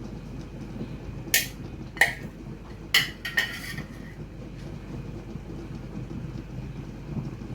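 Four sharp metallic clinks of a metal utensil against a cooking pot, the first two about half a second apart and the last two close together, each ringing briefly, over a steady low rumble.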